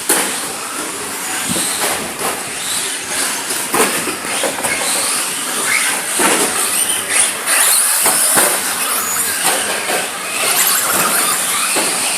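Radio-controlled cars running: a steady hiss, mostly high-pitched, with many scattered clicks and knocks.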